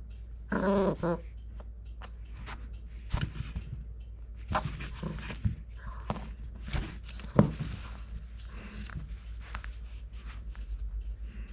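Cocker Spaniel puppy giving a short growl about a second in, then scuffling about as it plays and chews, with scattered taps and knocks.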